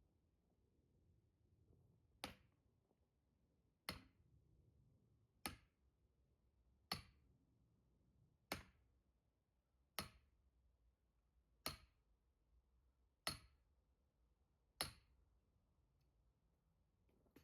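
Nine sharp, evenly spaced strikes of a splitting tool on firewood, about one every second and a half, each with a short bright ring.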